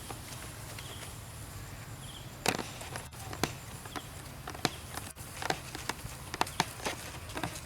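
A run of sharp, irregular clicks and taps over a steady low rumble, starting a couple of seconds in.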